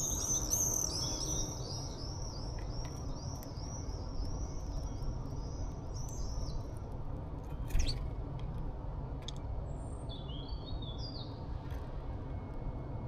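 Small songbirds chirping: a fast run of high chirps slows and fades out over the first seven seconds, and a few short chirps come later. A single sharp tap sounds about eight seconds in, over a steady low background rumble.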